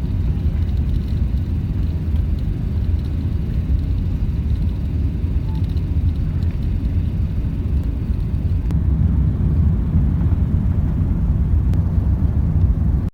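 Steady low rumble of engine and airflow noise inside an airliner cabin, with no clear changes in pitch.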